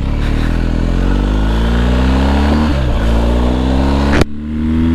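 BMW GS motorcycle's boxer-twin engine pulling with steadily rising revs, with a brief dip in pitch about three seconds in. Near the end a sharp click is followed by an abrupt change to a lower, steady engine note.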